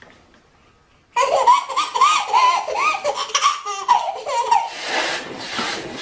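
High-pitched laughter starting about a second in, a quick run of ha-ha-ha notes that turns breathier and trails off near the end.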